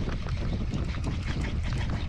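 Many small, irregular splashes and crackles of water at the surface, over a steady rumble of wind on the microphone.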